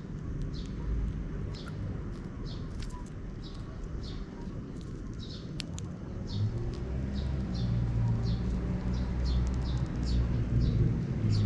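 Sparrows chirping over and over, short high chirps about two a second, over a low rumble that gets louder about halfway through.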